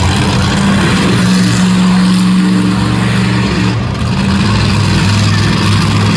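Monster truck engine running loud at high revs, its pitch mostly steady, with a brief dip about four seconds in before it picks back up.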